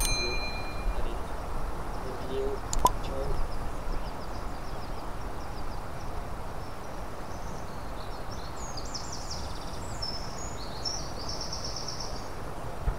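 Open-air ambience with a steady low background noise, and a songbird singing a rapid high trill from about eight to eleven seconds in. A sharp click and a short ringing chime come right at the start.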